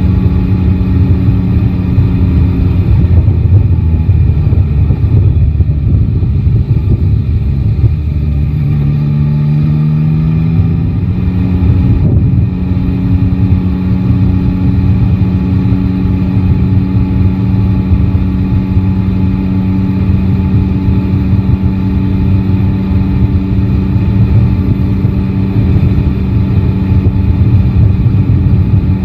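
Yamaha Tracer 9 GT's three-cylinder engine running under way over a low wind and road rumble; the engine note eases off about three seconds in, climbs in pitch from about eight to eleven seconds in, then holds steady at a cruise.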